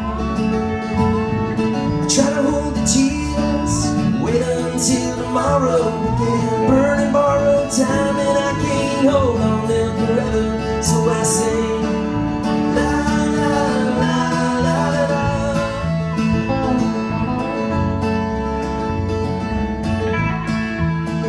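Country band playing an instrumental passage without words: strummed acoustic guitar over bass, with a lead melody line wavering in pitch through the middle.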